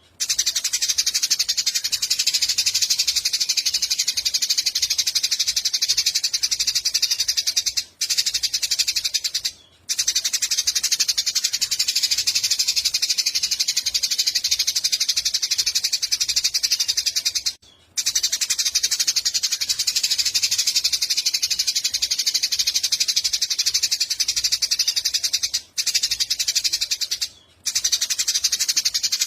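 Tutor recording for white-rumped shamas: a continuous, very rapid, high-pitched buzzing trill, broken by a few brief gaps, as a short clip repeats.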